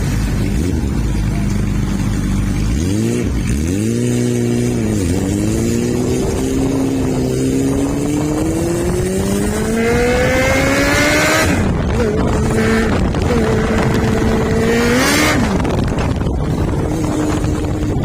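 Honda CB400 motorcycle engine starting at a steady idle and blipped twice. It then pulls away with a long rising note, drops sharply about eleven seconds in as it shifts gear, rises briefly again and drops once more near fifteen seconds.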